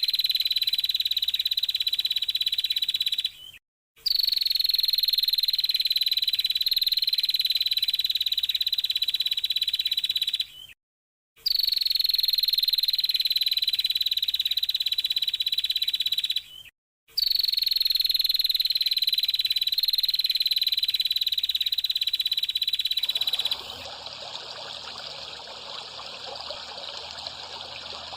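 A high, steady trilling animal call from a bird-training (masteran) recording, sagging slightly in pitch, played in four stretches of about five to seven seconds with short silent breaks. Near the end it gives way to a quieter, even rushing hiss.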